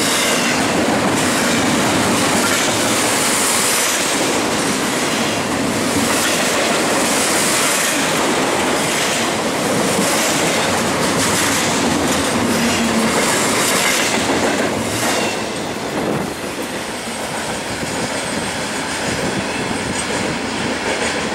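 Double-stack intermodal freight train cars rolling past at close range: a steady clattering rumble of wheels over the rail joints. About fifteen seconds in, the last car passes and the sound drops to a lower, fading rumble.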